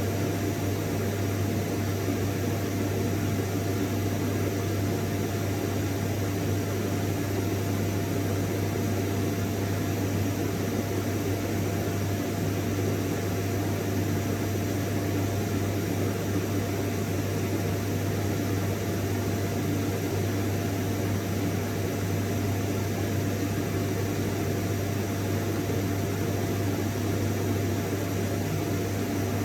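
Vacuum cleaner running steadily: an even rushing noise with a low hum and a thin steady whine above it, unchanging throughout.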